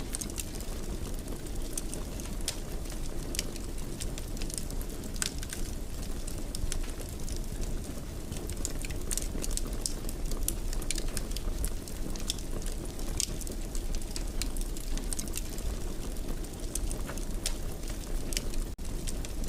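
Wood fire crackling in a fireplace: frequent small sharp pops and snaps over a steady low rumble of the flames.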